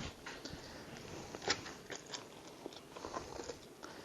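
Hands digging inside a raw turkey's cavity, which still holds some ice: faint, irregular wet squelching and crunching with small clicks.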